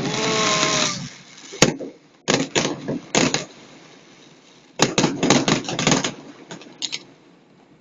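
Fireworks going off: a loud noisy burst in the first second, a single sharp bang shortly after, then clusters of rapid bangs and crackles about two seconds in and again about five seconds in.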